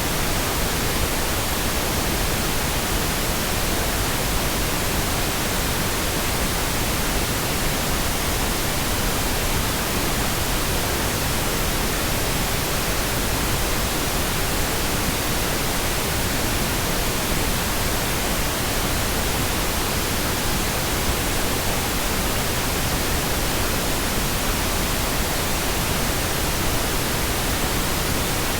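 Steady, unbroken pink noise: an even hiss spread across the whole range, with no change or events.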